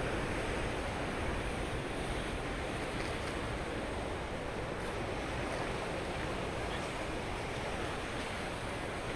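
Rough, stormy sea surf washing steadily against the rocky shore, with wind buffeting the microphone.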